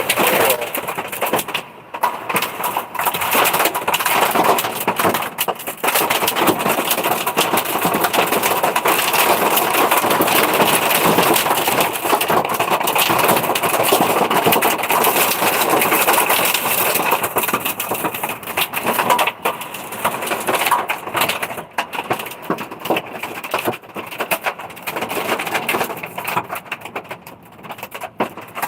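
Hail and heavy rain drumming on a truck, a dense clatter of many small hailstone hits that eases somewhat in the last third.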